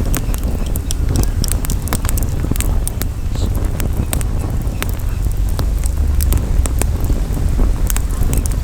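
Wood campfire crackling, with frequent irregular sharp pops and snaps, over a steady low rumble of wind buffeting the microphone.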